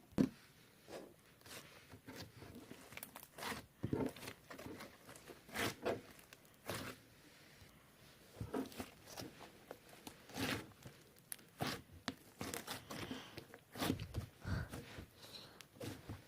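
Rainbow slime being squeezed and stretched by hand, giving irregular sticky pops, clicks and crackles.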